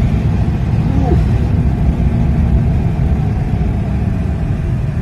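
Steady low rumble of road and tyre noise from a Tesla Cybertruck on the move, with no engine note since it is electric. The rumble is heard from inside the cabin.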